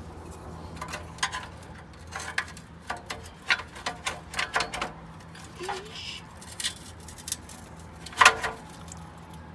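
Irregular metallic clicks and clinks of hand tools and loose exhaust hardware being worked under a car, over a steady low hum.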